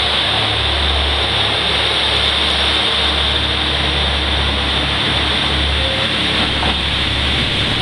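KiHa 185 series diesel railcar pulling out and running past, its last car passing within the first few seconds as the train heads away. It sounds as a steady rushing hiss over a low, fluctuating rumble.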